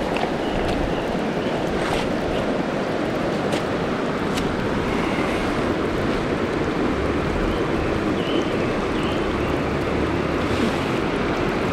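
Steady rushing of a mountain river's current, an even wash of water noise, with a few faint ticks over it.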